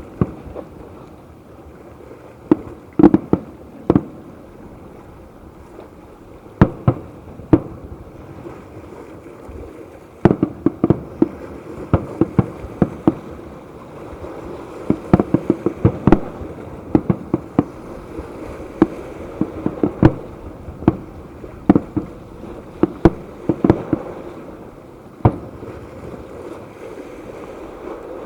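Fireworks display: aerial shells bursting in sharp bangs, a few scattered volleys at first, then a dense barrage of rapid bangs from about ten seconds in that thins out near the end.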